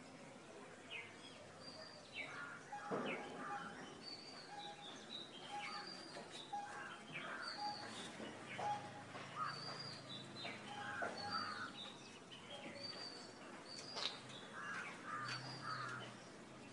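Birds chirping: many short, faint calls and tweets repeating throughout.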